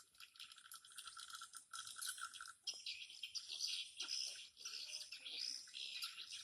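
Edible-nest swiftlets twittering: a dense chorus of high chirps and rapid clicks, with a steadier buzzing tone underneath that stops about two and a half seconds in.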